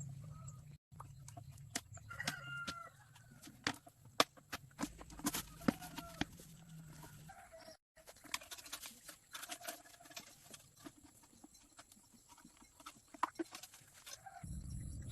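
Chickens clucking, with many sharp clicks and knocks between the calls. A steady noisy rumble starts near the end.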